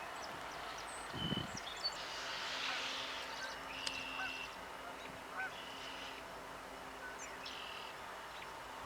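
Birds calling outdoors: scattered short chirps and brief trilling notes, with a low honk-like call about a second in, over a faint steady low hum.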